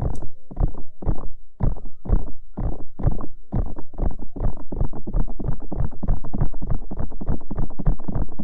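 Close-up ASMR trigger sounds on the microphone: a run of soft, muffled strokes, about two a second at first, speeding up to about four or five a second after about four seconds.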